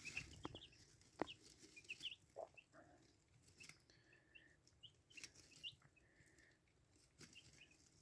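Buff Orpington chicks peeping softly: many short, high chirps scattered throughout, with a few faint clicks among them.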